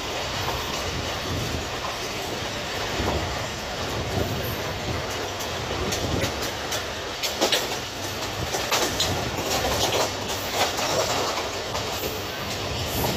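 Pakistan Railways passenger coaches running along the track, heard from a coach window: a steady rumble with sharp clacks of the wheels, coming thickest in the second half.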